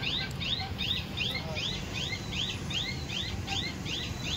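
A bird chirping over and over: an even run of short rising-and-falling high chirps, about three a second, over a low steady background rumble.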